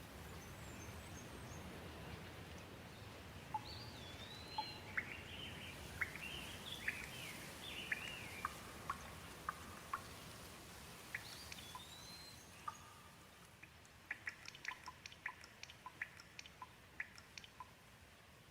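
Gentle rain falling steadily, easing after about thirteen seconds, with birds calling in short rising and falling whistles through the middle and water drops plinking, most of them near the end.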